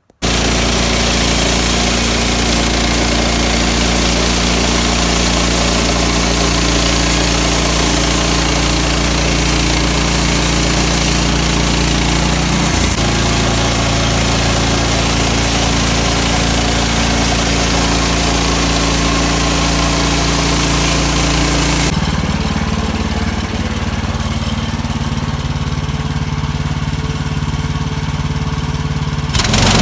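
Sawmill engine running steadily under load, with a bright hiss riding high above the engine note. About 22 seconds in the hiss falls away and the engine note shifts, the engine still running.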